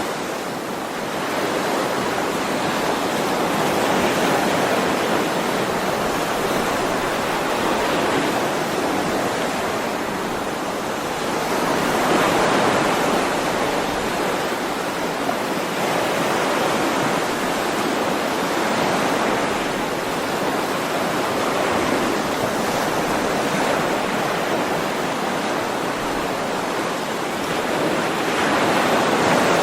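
Ocean waves washing in on the shore: a continuous rush of surf that swells and eases every several seconds, loudest about a dozen seconds in and again near the end.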